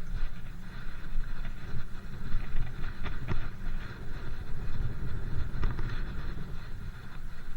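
Ride noise from a moving bike: wind buffeting the microphone as a steady low rumble, with rolling road hiss and a few faint rattles.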